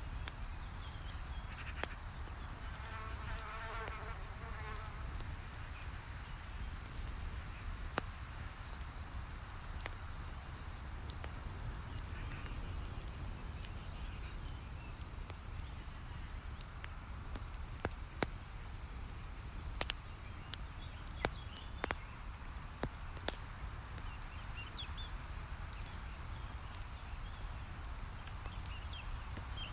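Campfire crackling, with scattered sharp pops over a steady low rumble and hiss. A flying insect buzzes for a couple of seconds near the start.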